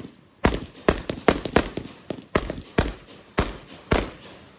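Consumer fireworks going off in an irregular string of about ten sharp bangs, each with a short echoing tail.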